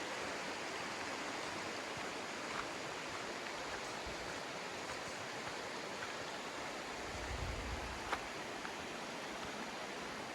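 Steady rushing of a river over stones, with a few faint clicks of footsteps on river rocks and a brief low rumble about seven seconds in.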